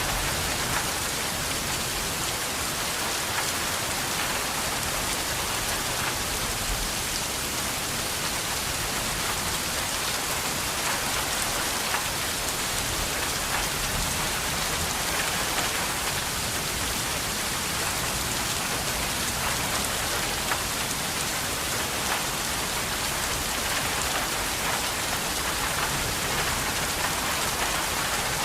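Steady rain falling: a constant, even hiss with scattered small drop ticks.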